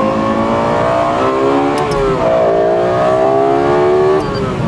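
Lexus LFA's 4.8-litre V10 under hard acceleration, heard from the cabin: the revs climb, drop sharply with an upshift about two seconds in, climb again, and fall with another shift near the end. The engine is being run up to the redline.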